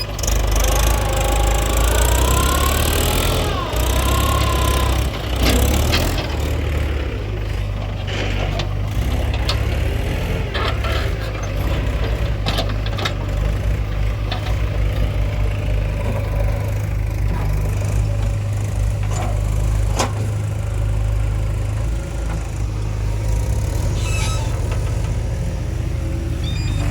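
Heavy diesel machinery running steadily, a JCB 3DX backhoe loader working mud into a tractor trailer. A wavering whine rises and falls in the first few seconds, and scattered sharp clanks come through the engine noise.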